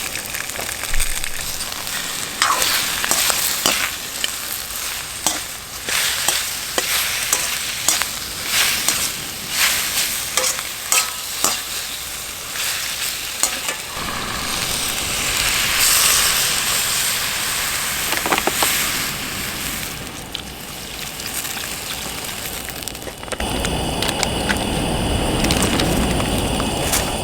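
Food sizzling in a pan over a campfire while it is stirred, with frequent sharp clicks and scrapes of the utensil against the pan; midway the sizzle turns to a steadier hiss. Near the end a low, steady rumble comes in under it.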